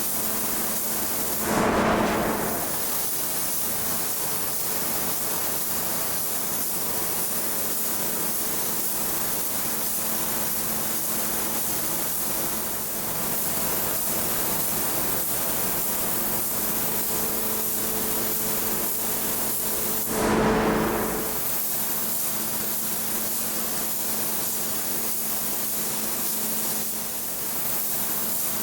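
Steady hissing machine noise with a faint steady hum underneath. Two short louder whooshes come about two seconds in and again about twenty seconds in.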